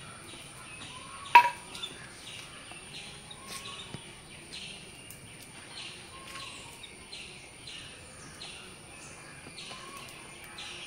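A bird giving short chirps every few seconds, the loudest a sharp chirp a little over a second in. Behind it runs a steady insect chorus that pulses about twice a second, with a thin high whine.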